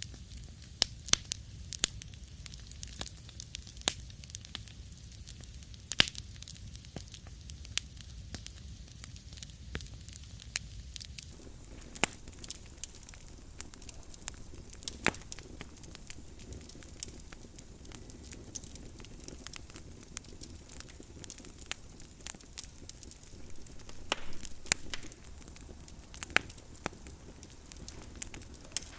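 Wood fire crackling, with irregular sharp pops over a low steady rumble; the hiss grows a little fuller about eleven seconds in.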